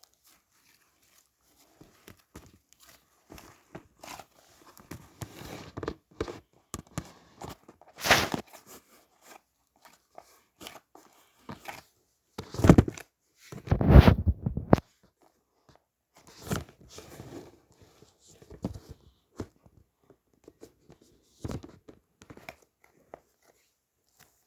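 Irregular clicks, rustles and thuds, with two louder noisy bursts about halfway through, the second lasting about a second.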